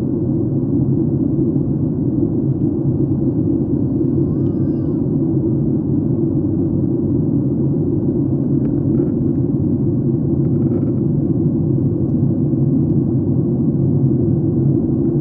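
Steady low rumble of airliner cabin noise in flight: engine and airflow noise heard from a window seat.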